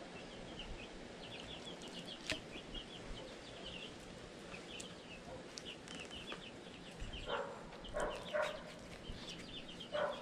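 Birds calling outdoors: quick runs of short high chirps throughout, fairly faint, with a few lower, louder calls about seven to eight and a half seconds in.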